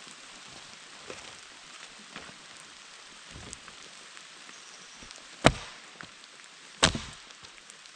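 Light rain pattering steadily, with small ticks and two sharp, loud cracks of firewood being broken for the campfire, about five and a half and seven seconds in.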